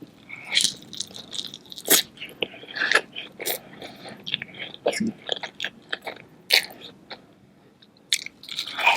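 Close-miked eating of a king crab seafood boil with Hot Cheetos: irregular sharp bites, crackles and wet chewing smacks, briefly going quiet about a second before the end.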